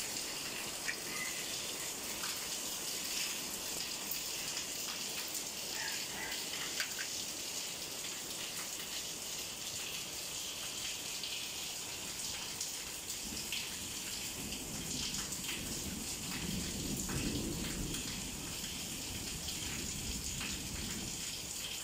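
Steady rain falling, an even hiss with scattered drips ticking. A low rumble swells up in the second half and fades near the end.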